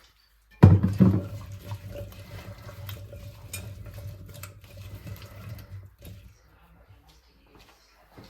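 Water running from a kitchen tap into a sink. It starts abruptly a little over half a second in, runs steadily and stops at about six seconds.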